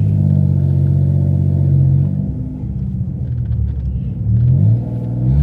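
Neighbor's truck with a mean-sounding exhaust cruising and pulling up. A steady engine drone eases off about two seconds in, then there are short rises in revs near the end.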